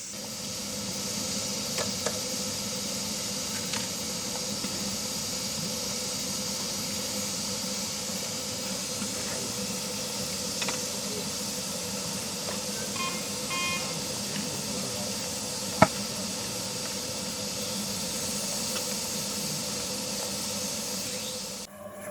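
A steady hiss with a low steady hum under it, a few short beeps about 13 seconds in, and a single sharp click near the end.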